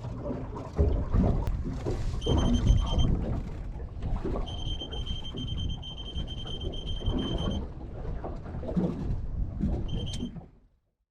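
High electronic beeping on a fishing boat over steady wind and water noise: one steady high tone, sounded briefly, then held for about three seconds, then briefly again.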